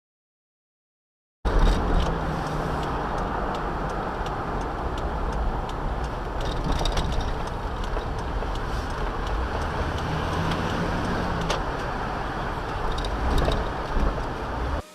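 Silence for about a second and a half, then the steady road and engine noise of a car driving, with a few faint ticks.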